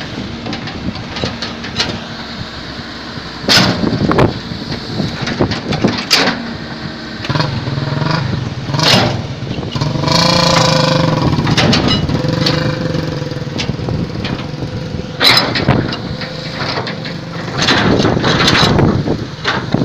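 Excavator's diesel engine running and working harder for several seconds midway, with a pitched whine over it, and several sharp clanks and knocks.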